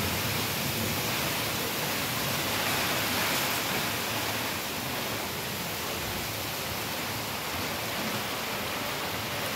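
Heavy rain pouring steadily onto paving and foliage, an even, unbroken hiss.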